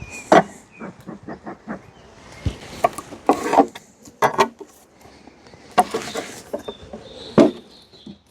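Irregular knocks, clicks and scrapes of beehive parts being handled as the hive is opened, with the loudest clunks about a second in and again around six and seven seconds in.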